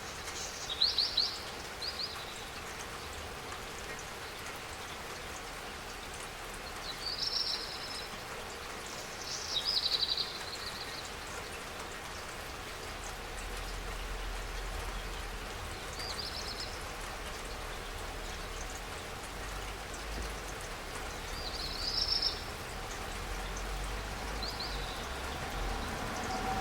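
Steady rainfall with a constant patter of drops. Short high chirps come every few seconds, and a low rumble builds in the second half, growing louder near the end.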